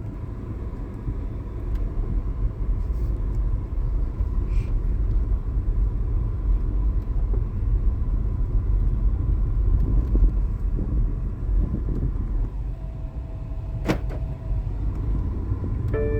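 Car running, heard from inside the cabin: a steady low rumble, with one sharp click about fourteen seconds in.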